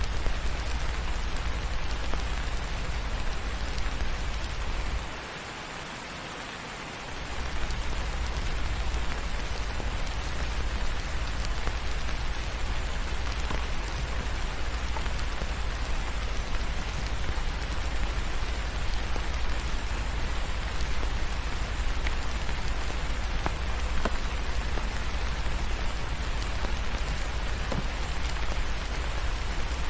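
Steady rain falling, an even hiss over a low rumble, with a few faint sharp ticks. The low rumble drops out for about two seconds around five seconds in.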